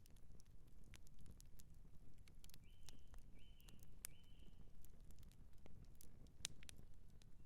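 Campfire burning, wood crackling with irregular sharp pops over a low steady rumble. Three short high chirps come in quick succession about halfway through.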